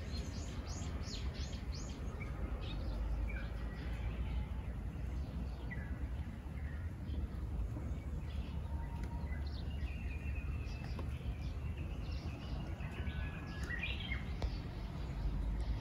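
Small songbirds chirping: scattered short calls, a longer whistled note about ten seconds in and a quick rising note near the end, over a steady low outdoor rumble.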